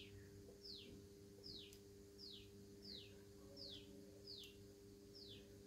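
A bird calling faintly in the background: a short high chirp that falls in pitch, repeated evenly about once every three-quarters of a second, eight times, over a low steady hum.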